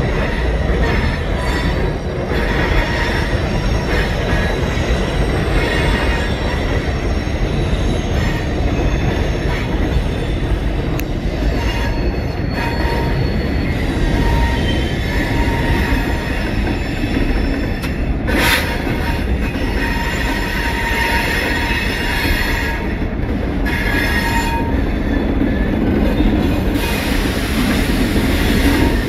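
Freight train cars rolling past with a steady heavy rumble, and wheel squeal coming and going as thin high tones. A single sharp clank about two-thirds of the way through.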